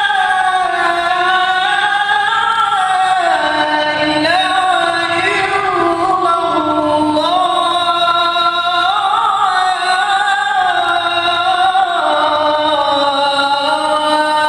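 A man calling the adhan, the Islamic call to prayer, drawing out one long melodic phrase that slides up and down in ornamented turns without a break.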